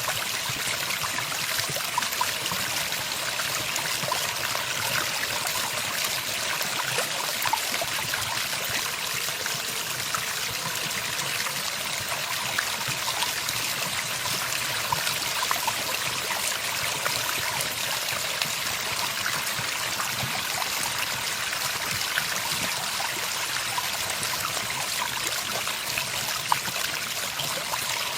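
Steady sound of running water, a stream trickling and splashing without a break.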